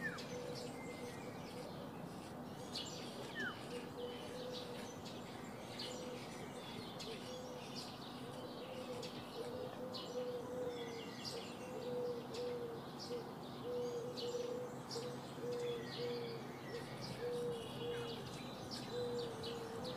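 Birds chirping, with short high chirps throughout. From about halfway in, another bird repeats a short, low note over and over.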